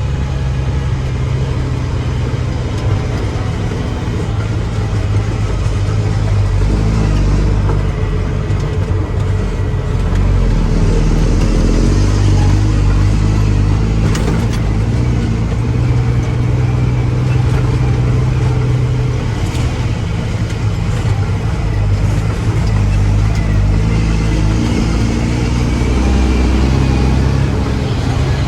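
Mack dump truck's diesel engine running steadily, its revs swelling up and easing off in long stretches a few times.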